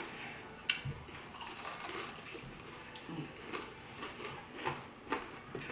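Eating sounds: chewing and biting into fried shrimp and egg roll, with scattered small mouth clicks and one sharp click under a second in.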